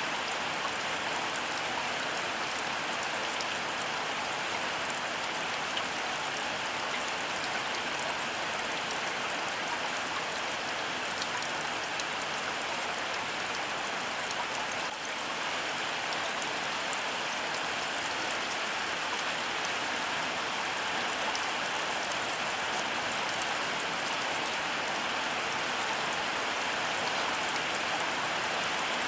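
Heavy rain falling steadily: a dense, even hiss of countless drops with fine pattering ticks, unchanging throughout.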